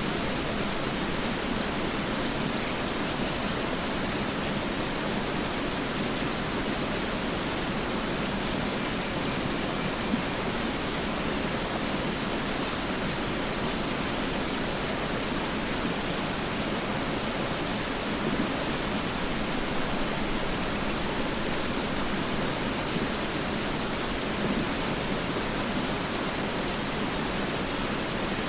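Mountain river flowing: a steady, even rushing of water over rocks, with no change in level.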